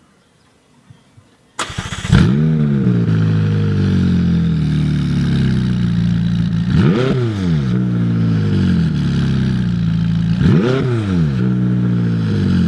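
McLaren 570S twin-turbo V8 with sport exhaust starting up about a second and a half in, flaring briefly, then settling to idle. It is revved briefly twice, each time rising and falling quickly.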